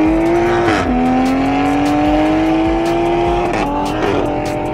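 C8 Corvette's V8 at full throttle, heard from inside the cabin: its note climbs steadily and drops sharply with quick upshifts about a second in and again near the end.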